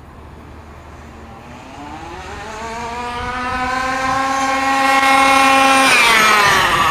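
HPI Baja 5b RC buggy's small two-stroke petrol engine at full throttle, climbing steadily in pitch and loudness as the buggy accelerates toward the microphone, then the pitch falls sharply near the end as it passes by.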